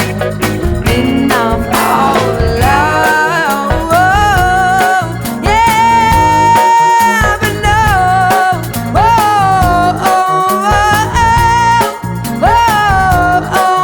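Pop-soul song with a band backing and a steady beat. A wordless melody line with vibrato is held and bent over it.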